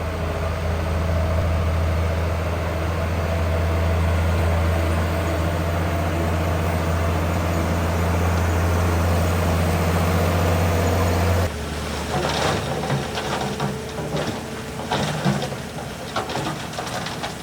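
Heavy diesel engine of construction machinery running steadily at a low pitch. About eleven and a half seconds in, it cuts off abruptly and gives way to a quieter engine with irregular clattering and knocks.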